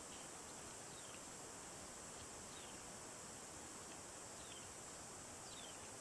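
Faint outdoor nature ambience: a steady high hiss, with a small bird's short, high, falling chirps every second or two.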